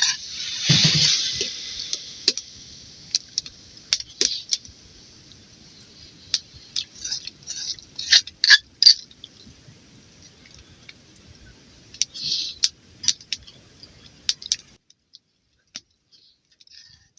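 Metal spoon clinking and scraping against a metal pot or cup, in scattered light clicks with a couple of heavier knocks near the start, over a faint hiss, until the sound cuts off near the end.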